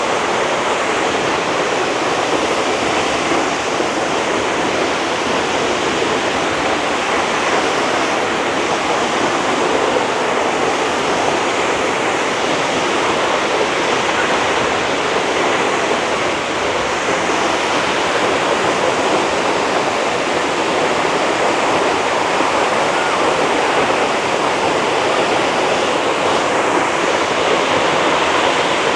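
Waterfall pouring, a loud, steady, unbroken rush of falling water.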